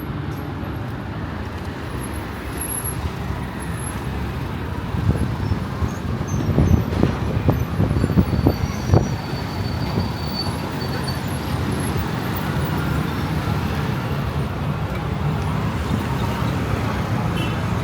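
Road traffic ambience: a steady rumble of passing motor vehicles, with a run of low thumps and knocks about five to nine seconds in.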